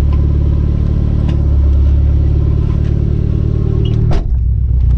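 Chrysler Conquest's 2.6-litre G54B turbocharged four-cylinder engine running steadily, with a single short knock about four seconds in.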